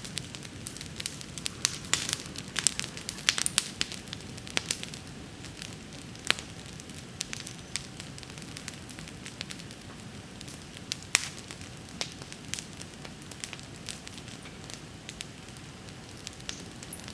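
Wood bonfire crackling: sharp pops and snaps over a low, steady rush of burning, busiest in the first few seconds.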